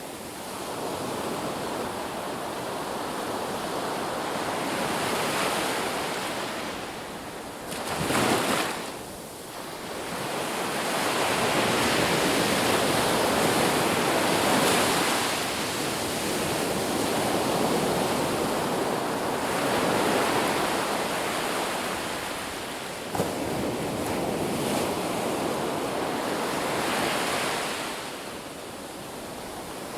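Ocean surf on a beach: waves breaking and washing in, swelling and ebbing every few seconds, with a brief louder surge about eight seconds in.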